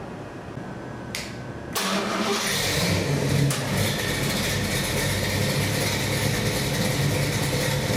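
Chevy 383 stroker small-block V8 being started: a short burst of cranking about a second in, then it fires just under two seconds in, briefly rises in revs, and settles into a steady idle.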